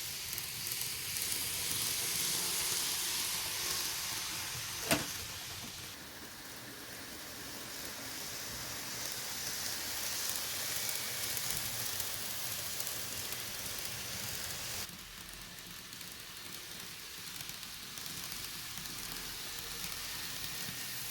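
N-gauge model train running on the layout track, a steady rolling hiss, with one sharp click about five seconds in. The sound shifts abruptly twice.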